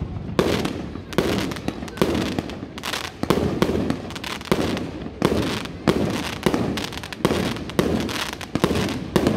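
Fireworks display: aerial shells bursting one after another, about two loud bangs a second, each trailing off in a rumbling echo.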